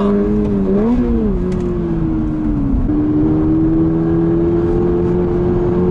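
Toyota GR86's 2.4-litre flat-four engine under way, heard from inside the cabin with road noise beneath. Its steady note rises and falls briefly about a second in, sags as the car slows, then steps back up about three seconds in and holds, climbing slowly.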